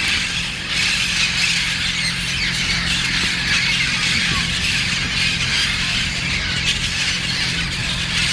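A flock of feral parrots squawking and screeching continuously, many harsh overlapping calls at once.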